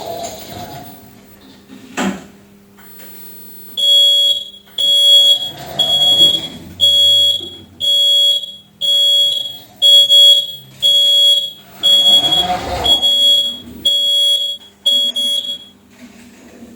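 Electronic alarm buzzer of a Lavor Comfort XXS floor scrubber beeping steadily, about once a second, a dozen times, signalling its traction-drive fault (alarm 16 traction/power stage fail, 17 traction overcurrent). A single knock comes before the beeping starts.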